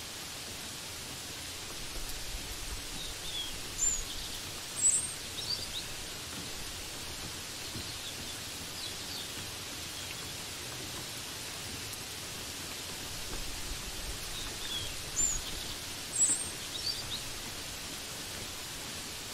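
Steady hiss of falling rain, with a few short high bird chirps about four and five seconds in that come again in the same pattern about eleven seconds later.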